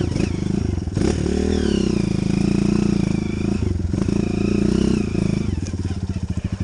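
Trail motorcycle engine running at changing revs, then slowing toward a ragged idle near the end, with the separate firing beats audible.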